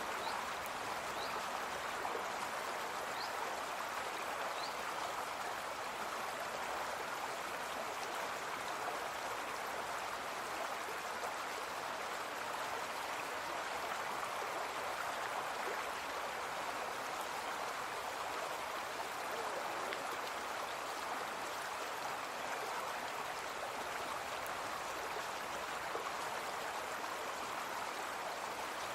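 Brook flowing steadily, a continuous even rush of water.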